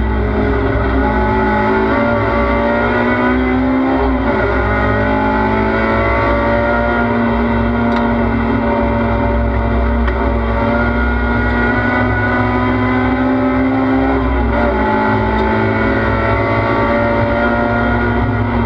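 Race car engine heard from inside the cockpit under hard driving, its note climbing steadily, with sharp dips in pitch about four seconds in and again about fourteen seconds in.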